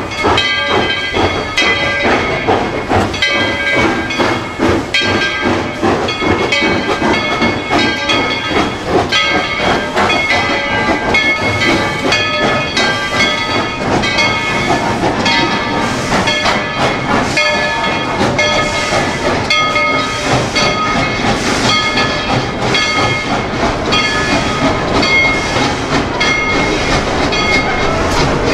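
Narrow-gauge steam train running, with a steady hiss of steam, a dense run of rapid ticks, and several high, steady tones that come and go.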